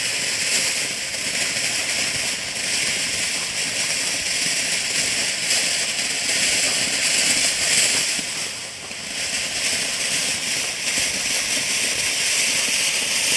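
Ground fountain firework spraying sparks: a steady, loud hiss that dips briefly about nine seconds in.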